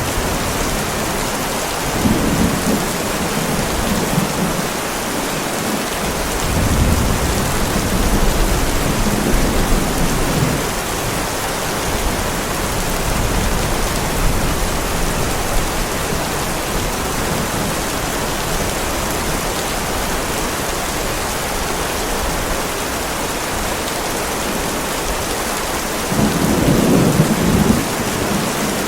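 Heavy rain pouring onto a driveway, a steady hiss, with low rumbles of thunder rolling in a few times, the strongest near the end.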